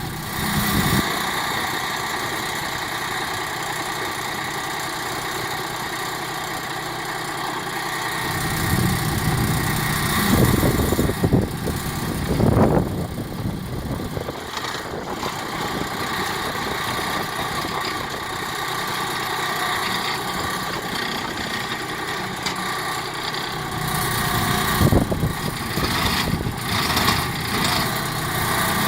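Compact diesel tractor engine running steadily, with a couple of louder stretches about ten seconds in and again near twenty-five seconds.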